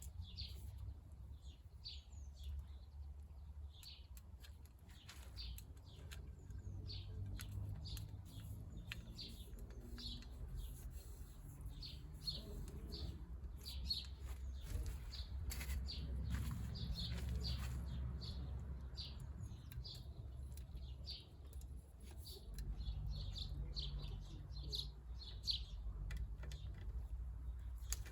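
Small birds chirping, short high calls repeated many times, over a steady low rumble.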